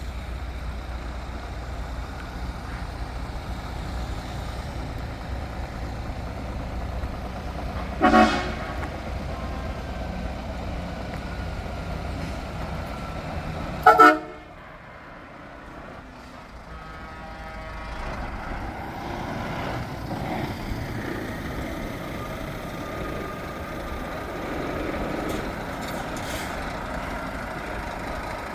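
A truck horn sounds two short, loud toots, the second about six seconds after the first, over the steady rumble of truck engines. After the second toot the engine rumble dips, then builds again.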